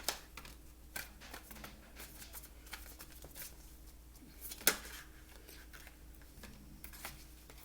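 Tarot cards being handled and shuffled: scattered soft flicks and snaps of card stock, the sharpest about four and a half seconds in.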